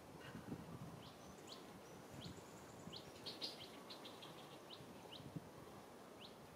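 Faint bird chirps: short rising notes repeated every half second or so, with a quick run of notes a little over three seconds in, over a low outdoor background rumble.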